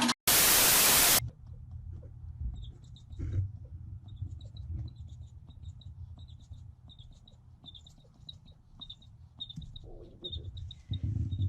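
A loud burst of static hiss lasting about a second, then a long run of faint, short, high-pitched squeaks from a small animal, coming irregularly over a low rumble.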